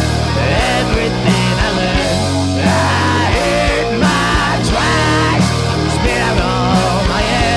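Rock band playing live: a steady drum beat with low bass and guitars, and a lead line of bending notes over them.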